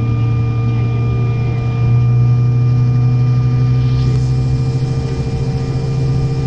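Steady drone inside a CRJ-900's cabin on the ground: a strong low hum with several steady whining tones above it. About two seconds in, the low hum steps up slightly in pitch and loudness.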